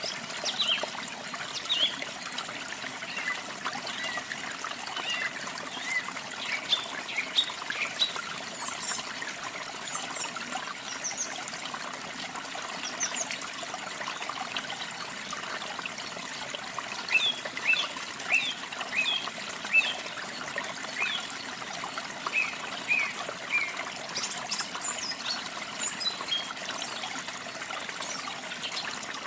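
Steady rushing of falling and flowing water, with small songbirds chirping in short high calls scattered over it, in clusters near the start, around the middle and later on.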